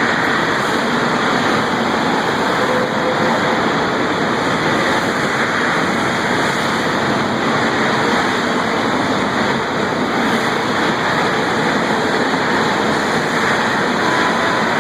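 Loud, steady, even roar of an electric arc furnace melt shop, with no distinct bangs or impacts.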